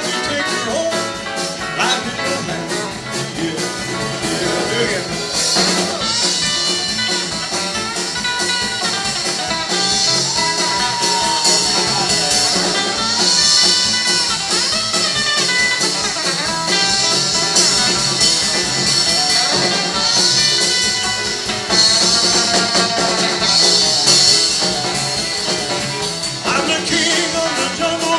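Live rock and roll band music with electric guitar and a steady beat, with some singing over it.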